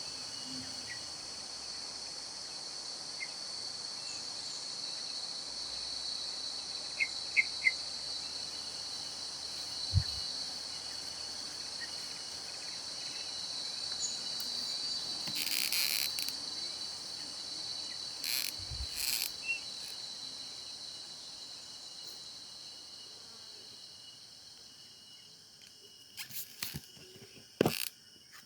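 Steady high-pitched chorus of insects trilling, which grows fainter near the end. Scattered sharp clicks and a couple of low thumps sound over it, the loudest clicks coming near the end.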